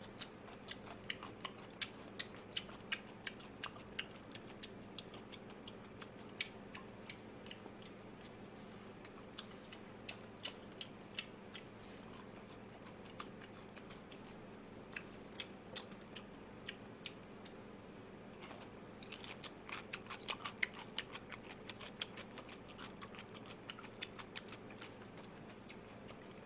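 A man chewing food close to the microphone: a run of small crisp clicks from his mouth, about one or two a second, thickening into a quick flurry about three-quarters of the way through.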